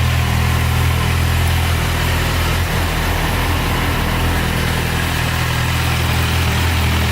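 Kawasaki Z800's inline-four engine idling steadily.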